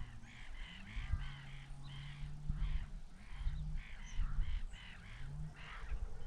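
A flock of birds calling over and over, many short calls a second overlapping one another, with a low hum underneath.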